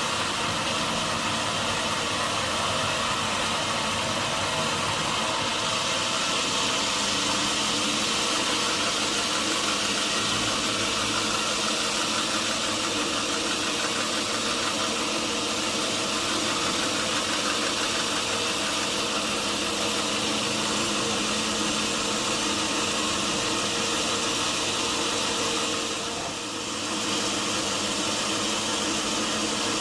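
Sawmill machinery running steadily, with a brief drop in level near the end.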